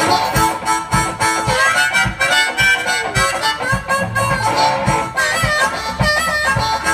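Blues harmonica solo with bending, held notes over guitar chords and a steady bass-drum beat, played by a one-man band.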